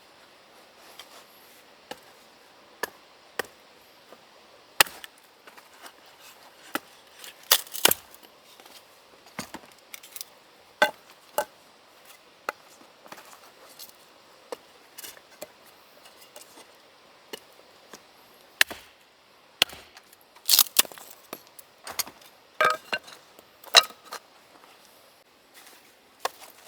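Firewood being split by hand: irregular sharp chopping strikes and cracks of wood, a second or more apart. A few strikes ring briefly, and the loudest come about a third of the way in and again in the last third.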